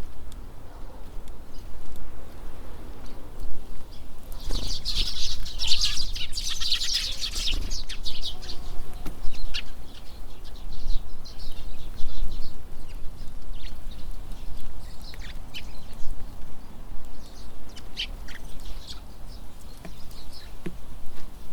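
Birds at a winter feeder: a dense burst of bird sound about four to eight seconds in, then scattered short high chirps, over a steady low rumble of wind on the microphone.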